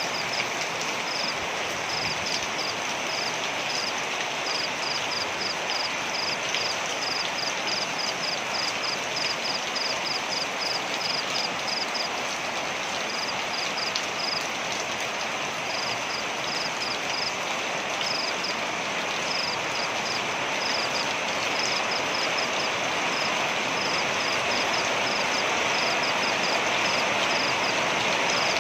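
Waterfall: a steady rush of falling water that swells slightly near the end, with a high chirping call repeated about three or four times a second over it.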